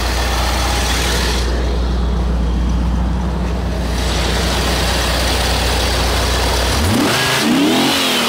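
1985 Chevrolet Corvette L98 5.7-litre small-block V8 idling steadily, then revved near the end, its pitch rising and falling and starting to climb again. It runs smoothly with no knocking or ticking.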